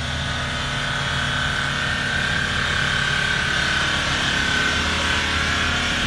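Steady driving noise of a moving car: engine hum and road rumble with a faint high whine running throughout, and no impact.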